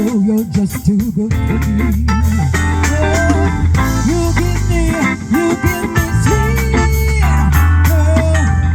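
Live band playing: a steady bass line under held lead notes that bend and waver in pitch.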